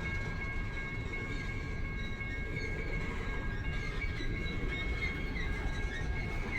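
BNSF freight train cars rolling past, a steady low rumble of wheels on rail with faint high squeaks over it.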